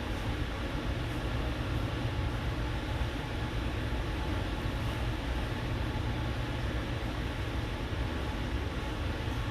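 Steady low rumble with an even hiss of background room noise, unchanging throughout.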